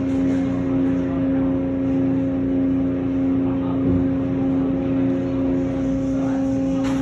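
Car wash tunnel machinery running: a steady mechanical hum with a constant low tone and a rumble underneath.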